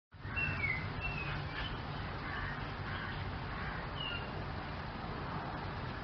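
A few short bird chirps, several in the first second or so and one more about four seconds in, over a steady low background rumble of outdoor ambience.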